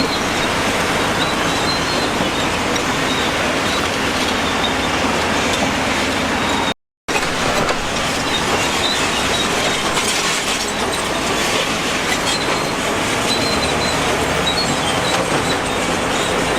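Heavy earthmoving machinery running with a steady, dense engine-and-metal noise, a faint high squeal riding on top. The sound cuts out completely for a moment about seven seconds in.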